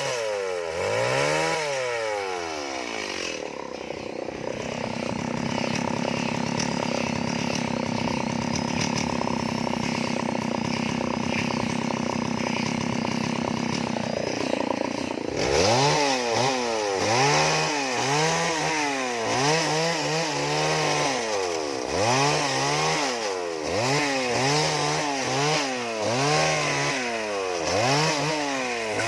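Two-stroke chainsaw carving wood: the engine runs at one steady speed for about ten seconds, then from about halfway through it is revved up and back down over and over, about once a second, as it cuts in short strokes.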